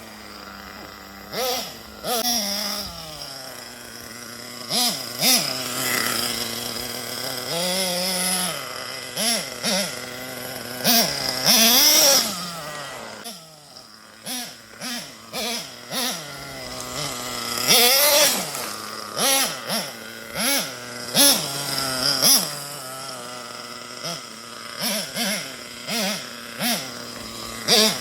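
Nitro RC car's small glow-fuel two-stroke engine revving, its high-pitched whine rising and falling over and over as the throttle is opened and let off, with a short lull about halfway through.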